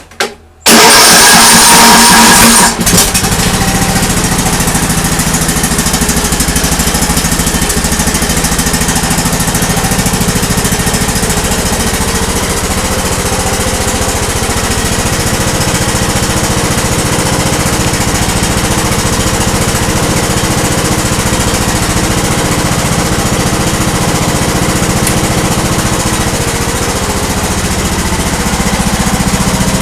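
Briggs & Stratton engine of a Troy-Bilt lawn tractor starting up with a loud burst of about two seconds, then running steadily at an even speed.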